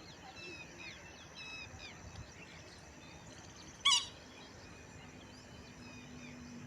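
Small birds chirping and trilling all through, with one loud, short, harsh squawk about four seconds in, typical of a parrot's screech.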